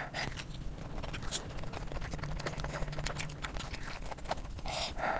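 Close-miked eating: rapid wet chewing with lip-smacking clicks, and a louder crunchy bite near the end.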